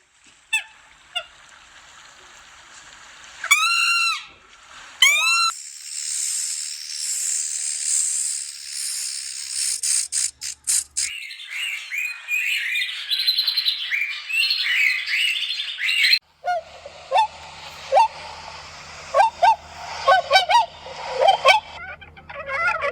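Birds calling: two loud honking calls about four and five seconds in, followed by many short chirps and sharp calls.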